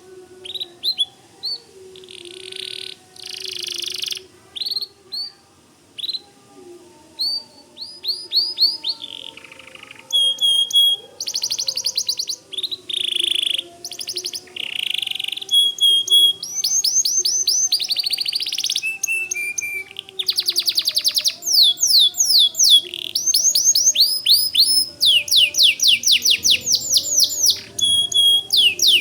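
Domestic white canary singing a long, continuous song: rapid trills of fast downward-sweeping notes alternating with buzzy rolls and short clear whistles, the phrase changing every second or two. The song grows denser and louder about a third of the way in.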